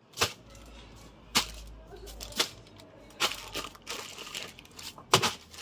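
Plastic-bagged food packages being handled and dropped: rustling and crinkling plastic with about five sharp knocks, the loudest near the end.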